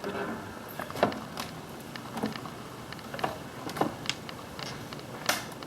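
Scattered knocks, taps and creaks from a person moving about in an attic, about one a second, with a sharper knock near the end.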